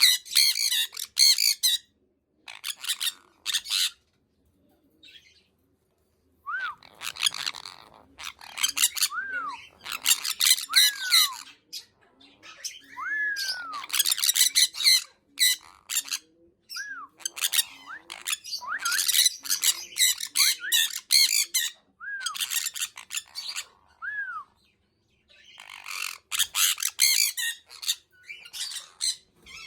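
Sun conure screeching in clusters of harsh, rapid, very loud squawks, with short pauses between them, mixed with brief rising-and-falling whistled calls.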